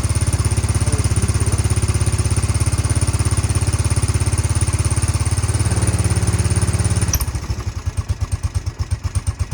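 ATV engine running at a steady fast idle; about seven seconds in it suddenly drops to a slower, lumpier idle with more separate beats. It is running cold and low on fuel, and the owners suspect it needs a carburettor clean.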